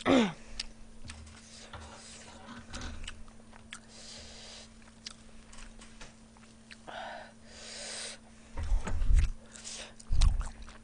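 Close-miked chewing and biting on meat, with scattered small clicks and wet mouth sounds, and two low thumps near the end.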